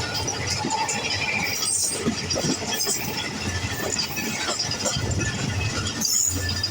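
Passenger train running: a steady rumble and rattle of the coaches, with scattered metallic clinks and knocks.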